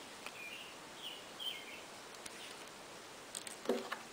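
A small bird chirping in the background, a few short chirps in the first two seconds, over soft handling sounds of fabric and thread, with a short louder thump near the end.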